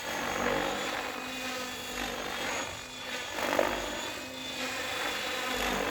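Mikado Logo 700 electric RC helicopter flying aerobatics: a steady motor and gear whine under the rotor blades' whoosh, which swells and fades about four times as the helicopter is flipped.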